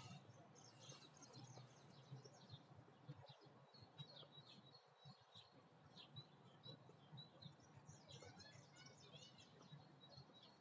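Faint birdsong in a park: many short chirps and twitters from several small songbirds, with a denser run of quick calls about eight seconds in.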